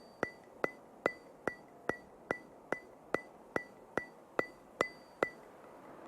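A steady run of sharp, evenly spaced ticks, about two and a half a second, each with a brief bright ring. The ticking stops shortly before the end.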